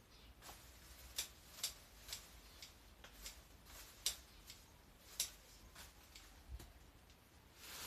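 Hand shears snipping through garden stems and branches: a run of short, sharp, irregular snips.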